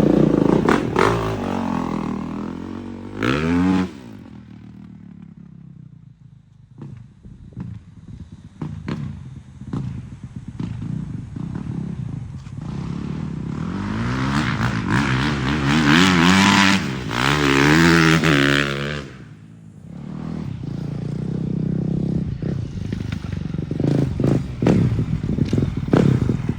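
Off-road vehicle's engine revving up and dropping off again and again as it is ridden over dirt whoop-de-doos, with clattering and knocks; the longest, loudest rev comes a little past the middle and cuts off sharply.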